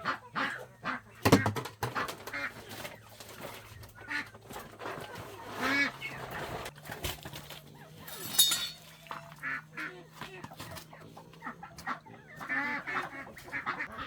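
Domestic fowl calling on and off, with many short honking calls, and a sharp knock a little over a second in.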